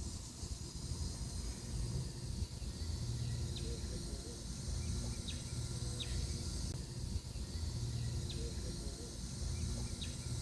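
Outdoor farm ambience: a steady low rumble and a high insect hiss, with about six short, quick bird chirps scattered through.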